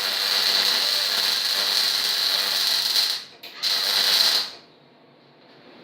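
MIG welding arc crackling steadily while a downhill bead is run on an outside corner of the frame. The arc stops a little after three seconds in, then strikes again for a shorter weld of about a second.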